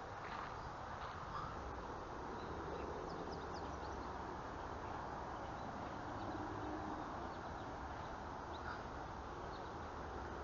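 Outdoor ambience of steady background noise, with a few faint, short bird chirps about three seconds in and again near the end.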